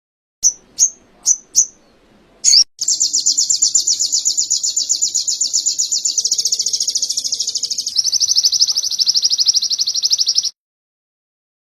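A sogon (ruby-cheeked sunbird) singing canary-style song: four short, high, falling chirps and one more, then a long, rapid, high trill that shifts slightly lower about eight seconds in and cuts off suddenly.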